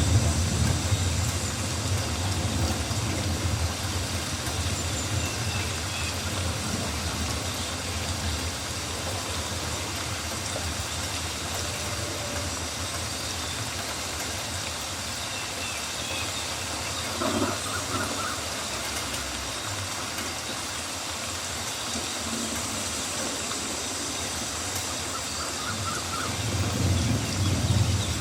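Steady rain falling in a forest, an even hiss with a low rumble that swells at the start and again near the end.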